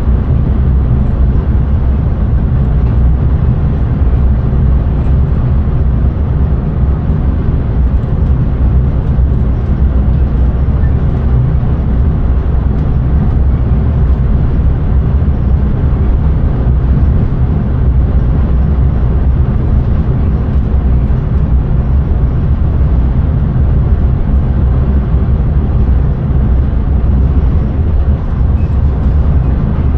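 Steady low rumble of a moving electric train heard from inside its driving cab: wheels on the rails and running gear, with no changes in speed or level.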